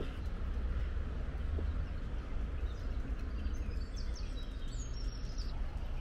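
Outdoor ambience: a steady low rumble under a light hiss, with a small bird chirping a few times past the middle.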